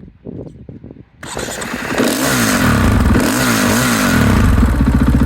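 A KTM EXC 500 Six Days single-cylinder four-stroke enduro engine, fitted with an Akrapovic exhaust, starts up easily about a second in. It is revved up and down a few times, then settles into a steady, even beat.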